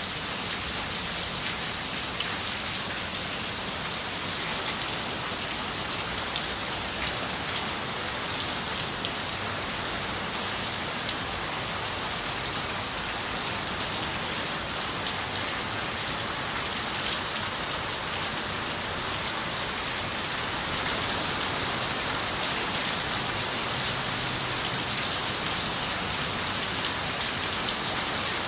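Steady rain falling on a window, an even hiss with scattered droplet ticks, growing a little louder about two-thirds of the way through.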